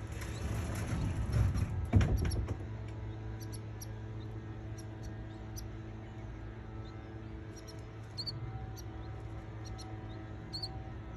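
Baby canaries giving short, high peeps, scattered through and more frequent near the end, over a steady electrical hum. A rustling, handling-type noise in the first two seconds ends in a sharp knock.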